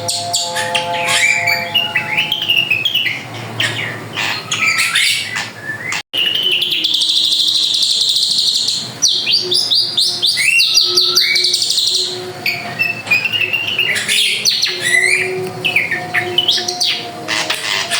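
A drongo singing continuously: a rich, varied song of whistles, rapid trills and chattering note series. The song breaks off for an instant about six seconds in.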